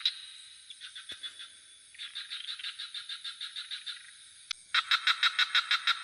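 Frogs calling in rapid pulsed trains of about eight or nine pulses a second, in bouts that overlap, the loudest starting near the end. A steady high-pitched insect drone runs underneath.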